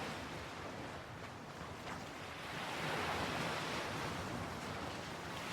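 Ocean waves washing onto a shore, a steady surf hiss that swells about halfway through and eases off again.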